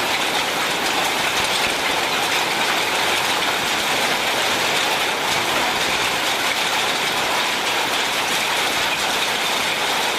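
Heavy rain mixed with hail pelting a vehicle's roof and windshield, heard from inside as a dense, steady clatter.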